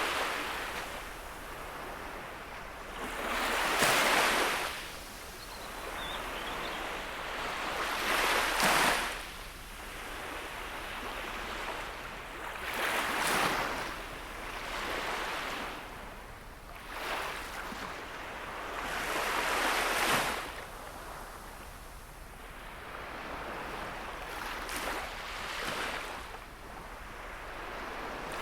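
Gentle sea waves washing onto the beach, each wave a rush that swells and fades, arriving about every four to five seconds.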